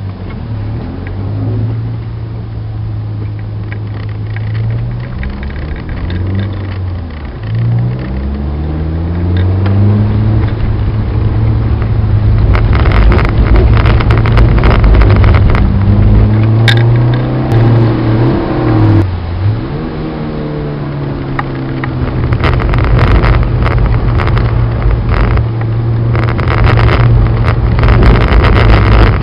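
In-cabin sound of a Citroen Saxo VTS's four-cylinder petrol engine being driven hard on track, its note climbing and dropping again and again as it is shifted through the gears. From about twelve seconds in, and again near the end, a loud rushing noise with scattered clicks rides over the engine.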